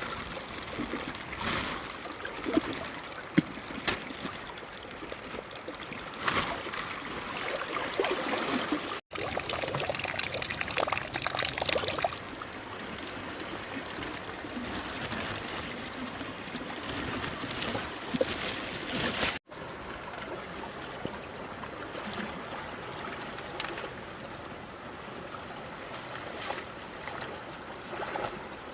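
Running, trickling water with scattered splashes, broken off abruptly twice by edits.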